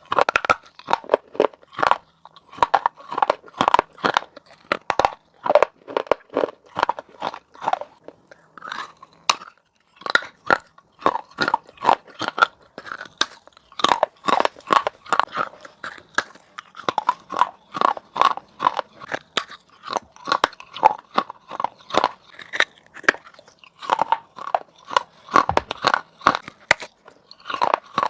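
Pieces of baked clay pot being bitten and chewed: rapid, irregular crisp cracking crunches, with a couple of short pauses between mouthfuls.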